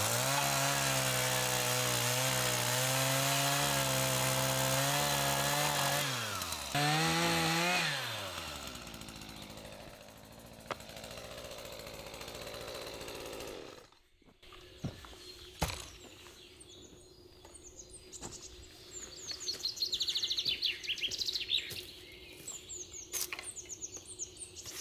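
A handheld power tool's motor running hard under load with a wavering pitch, cut briefly about six seconds in, run up again and then spinning down with falling pitch. Later, birds chirp.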